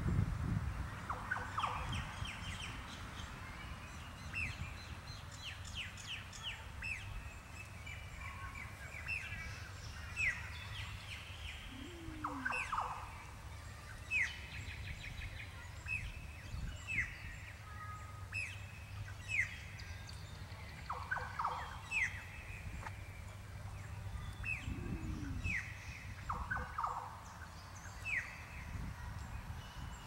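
Small birds chirping: many short, quick, falling high notes scattered irregularly, over a steady low background rumble.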